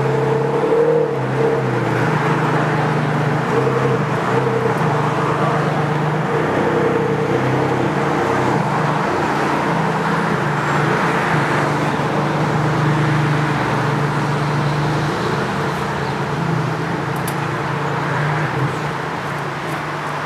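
Ferrari Enzo's V12 running at low revs through an aftermarket straight-pipe exhaust, loud and steady as the car idles and moves off slowly, with small rises and dips in the engine note.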